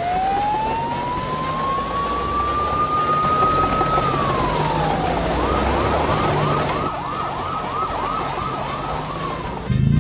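Police siren sound effect: one slow rising wail that peaks about four seconds in and falls away, then a fast yelp of about three quick rising sweeps a second, over a low rumble.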